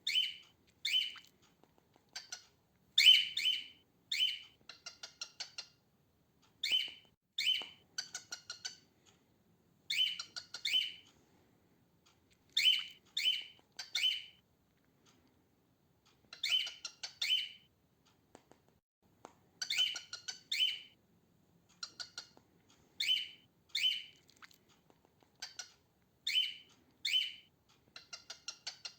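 Female cockatiel calling: short chirping calls repeated in quick runs of two or three, with pauses of about a second or more between runs.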